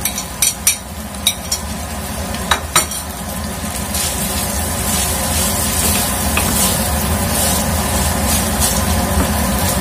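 Flat rice noodles frying in a hot oiled pan, with a few sharp clicks of a metal spoon against the plate in the first three seconds. They then sizzle steadily as a wooden spatula stirs them, the sizzle growing louder about four seconds in.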